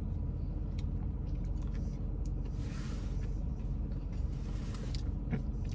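Steady low rumble of a car's engine heard from inside the cabin, with a few faint clicks and a brief soft crackle about three seconds in.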